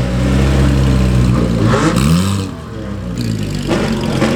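Car engine revving: a steady engine note, then a quick rev that rises and falls in pitch about two seconds in, and the pitch climbs again near the end.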